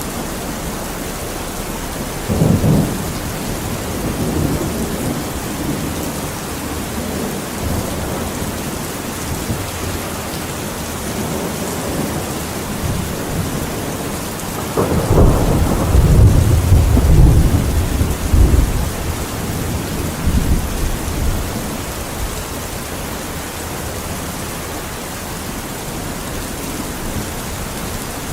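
Steady rain with thunder: a short rumble about 2 seconds in, then a longer, louder roll of thunder about halfway through that dies away after a few seconds.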